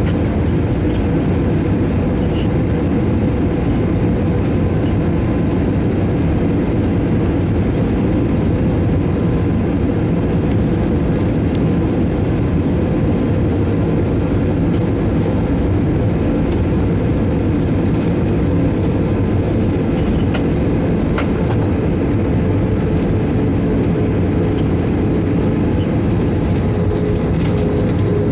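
Steady airliner cabin noise from an Airbus A321: an even low rumble of engines and airflow with a faint steady hum.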